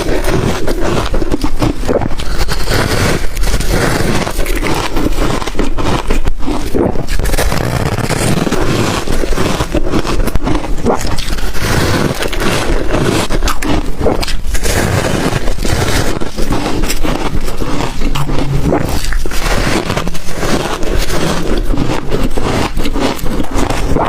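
Ice coated in matcha and milk powder being bitten and chewed close to the microphone: a loud, continuous, dense crunching and cracking with no pause.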